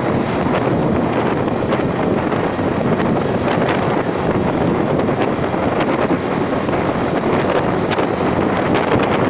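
Wind buffeting the microphone during a ride: a loud, steady rushing with the vehicle running underneath and a scattering of short clicks and rattles.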